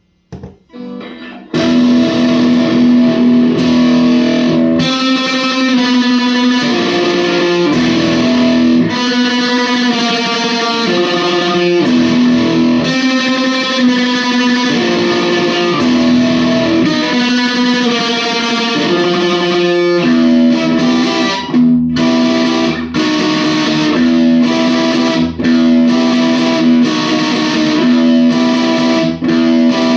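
Electric guitar with a bridge humbucker, played through a TC Electronic Grand Magus distortion pedal into a small practice amp, playing a distorted riff of held notes and chords. It opens with a couple of short stabs, then plays on steadily from about a second and a half in, with brief stops about two-thirds of the way through.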